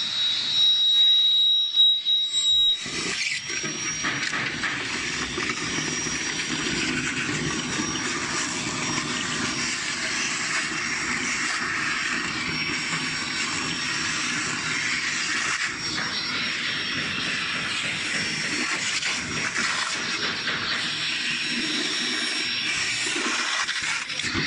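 Vacuum cleaner running steadily, a rush of air with a thin high whine; the sound changes abruptly about three seconds in.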